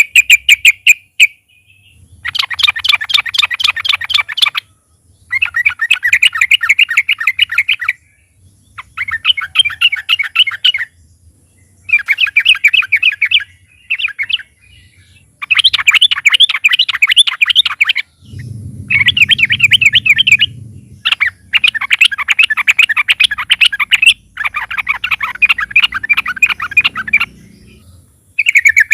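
Yellow-vented bulbul (trucukan) singing its fast rattling song, about ten bursts of rapidly repeated notes a couple of seconds each, with short pauses between.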